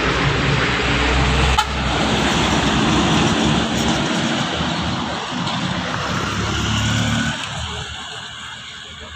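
Truck engine running under load with road noise, then fading away after about seven seconds. There is a brief sharp sound about a second and a half in.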